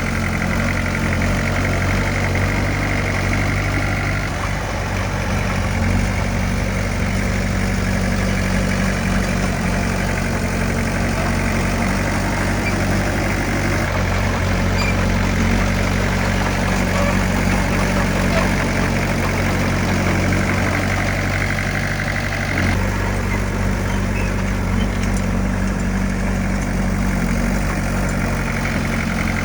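Diesel engine of heavy earthmoving equipment, likely a bulldozer, running steadily with a low drone. Its note shifts slightly a few times.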